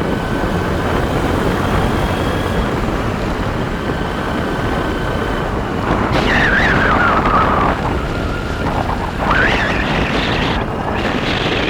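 Motorbike on the move, a steady dense rumble of engine and wind noise, with a high whine that falls in pitch about six seconds in and another that rises about nine seconds in.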